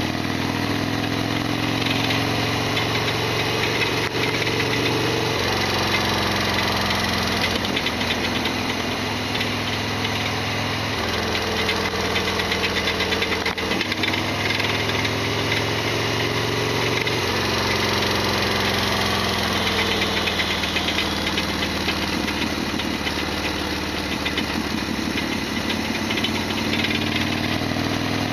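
Harley-Davidson Sportster XL1200R's modified V-twin engine running under way, its pitch stepping down or up a few times, with a loud rattling, clattering mechanical noise that the owner calls a big abnormal noise.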